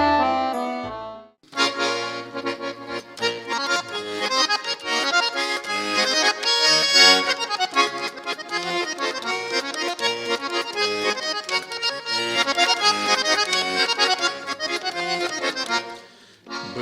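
Garmon (Russian button accordion) playing an instrumental introduction: a melody over a regularly alternating bass. A held chord ends about a second in, and after a short pause the playing starts up and runs on until a brief drop just before the end.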